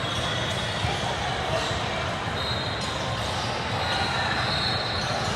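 Basketball game sound in a gym: a ball bouncing on the court over a steady wash of crowd and player voices, with several high squeaks, some held for about a second.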